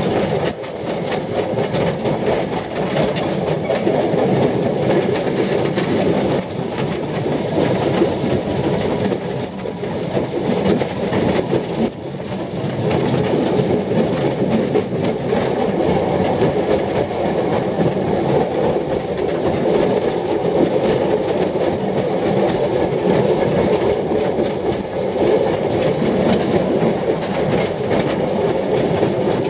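Groudle Glen Railway's 2 ft narrow-gauge carriages running steadily along the track, heard from on board an open carriage: the wheels rumble on the rails.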